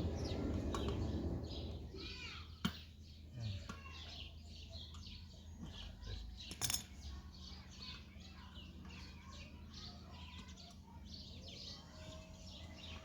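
Small birds chirping continuously in quick, short falling notes. A low rumble fades out over the first two seconds, and two sharp clicks stand out, one a little under three seconds in and one near the middle.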